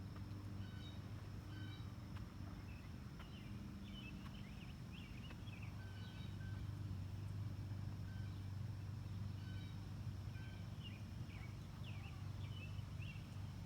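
Outdoor ambience: songbirds chirping and calling in short notes and quick glides, scattered through the stretch and busiest about four to five seconds in and again near the end, over a steady low hum and a thin steady high tone.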